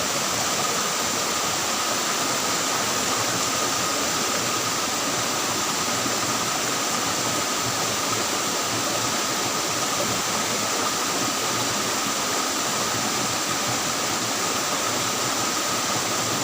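Steady rush of flowing stream water, an even hiss with a faint steady high-pitched tone running over it.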